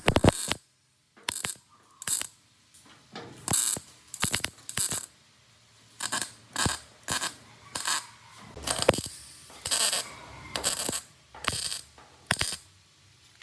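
Metal parts or tools clinking and clicking in short, irregular bursts, about a dozen strokes.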